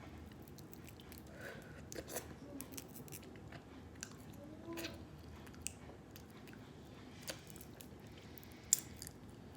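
Eating whole Maryland blue crabs close to the microphone: quiet chewing and sucking of crab meat, broken by sharp clicks and cracks of shell, the sharpest near the end.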